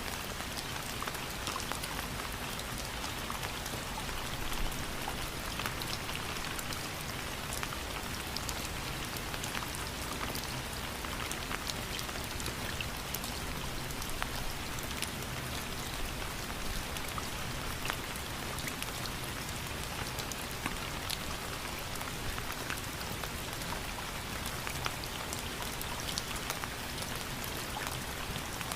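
Steady rain falling, with many individual drops ticking sharply on a hard surface over an even hiss of rain.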